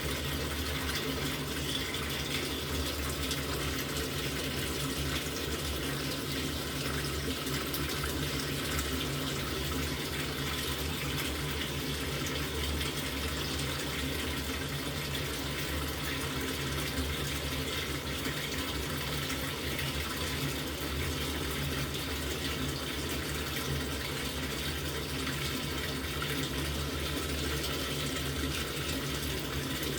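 LG top-loading washing machine taking in water, a steady stream running into the tub with a low hum underneath.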